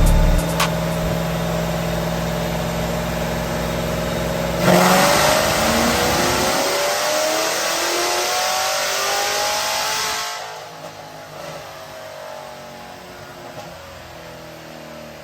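Supercharged 6.2-litre LT4 V8 of a C7 Corvette Z06 with a BTR Stage 2 camshaft, running steadily. About five seconds in it accelerates hard, rising in pitch for about five seconds, then drops off to a quieter run.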